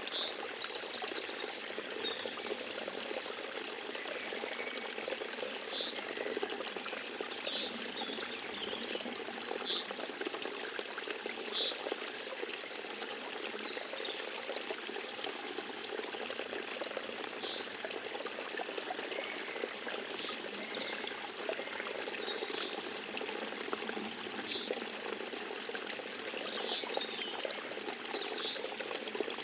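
Forest stream trickling and pouring steadily, with short high notes every second or two.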